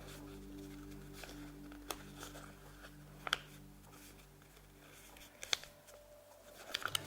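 Origami paper being folded and creased by hand: a few soft crackles and taps, with a quick cluster near the end. Quiet steady background music underneath fades out about two-thirds of the way through.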